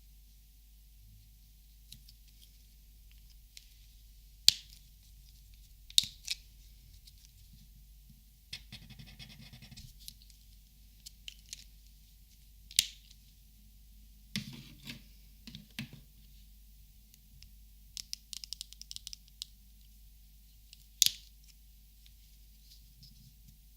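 Plastic Copic markers being handled and sorted: several sharp single clicks of caps and marker bodies, with a short scratchy rattle, a cluster of knocks and a run of quick light ticks in between.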